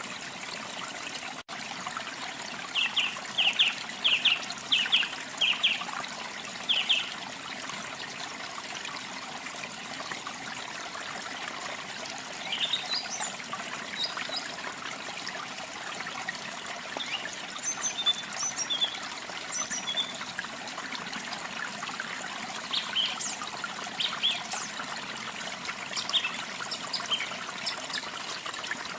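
Water trickling and splashing steadily, like a small stream or cascade. A songbird chirps over it: a quick run of short notes a few seconds in, then scattered higher chirps through the rest.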